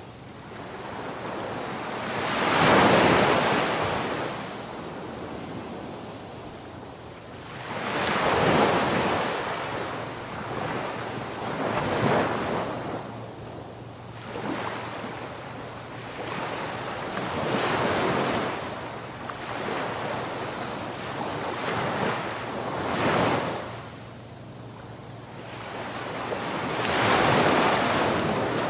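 Ocean waves breaking on a shore, a rushing surge that swells and falls back every four to six seconds.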